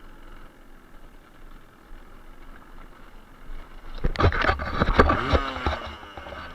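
A Suzuki TS125R's two-stroke single-cylinder engine running low and quietly. About four seconds in it turns loud, with the engine pitch rising and falling and a rapid clatter of knocks for about two seconds, as the bike rides over a rocky, rubble-strewn trail.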